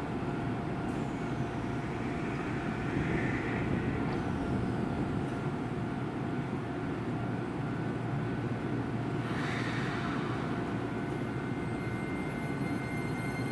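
Keisei Main Line train running with a steady low rumble; thin, high-pitched wheel squeal sets in near the end.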